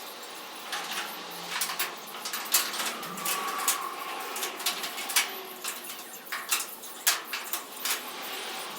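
A series of irregular sharp clicks and knocks, some louder than others, as of small metal parts being handled.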